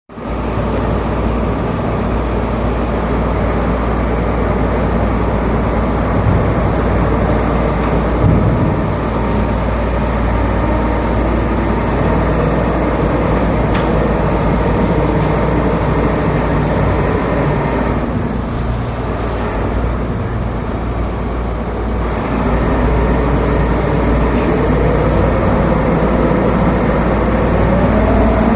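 Heavy port cargo-handling machinery running steadily during the unloading of wire rod from a ship, with a low engine hum throughout. A whine rises in pitch over the last few seconds.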